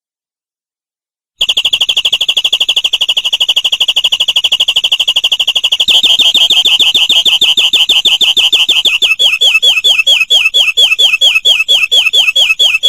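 Domestic canary singing: after a short silence, a very fast trill of repeated high notes, switching about six seconds in to a slower run of repeated down-slurred notes.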